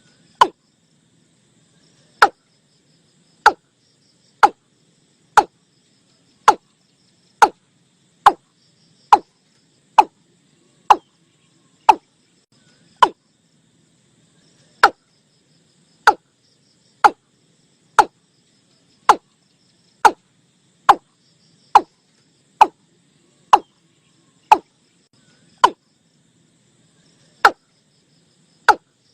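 Male watercock calling: a steady series of short, separate notes at about one a second, each sliding slightly downward in pitch. A faint insect or frog chorus runs underneath.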